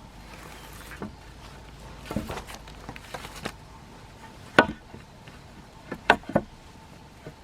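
A few sharp knocks, the loudest about four and a half and six seconds in, with lighter clicks between them.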